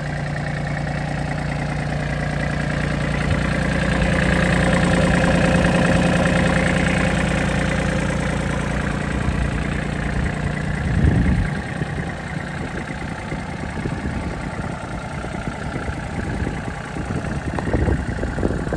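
Case DX26 compact tractor's diesel engine running steadily, growing louder for a few seconds in the middle. About eleven seconds in, the even engine note breaks off after a short surge and gives way to a rougher, uneven sound.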